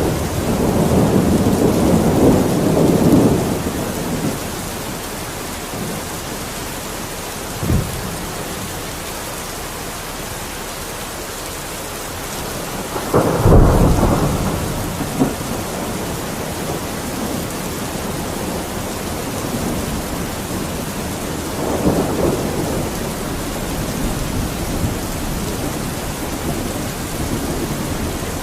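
Steady rain falling, with low rumbles of distant thunder that swell and fade near the start, again more suddenly and loudest about halfway through, and once more in the last third.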